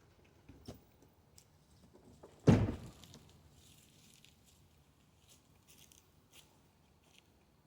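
A single heavy thud about two and a half seconds in, amid faint clicks and handling rustles.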